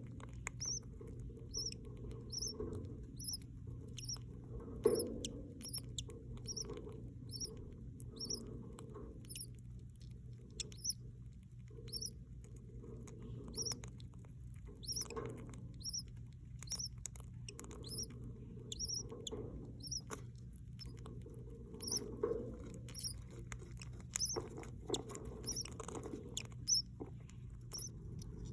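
Baby budgie chicks cheeping in the nest: a steady run of short, high squeaks, about two a second, over rustling and scratching in the nest.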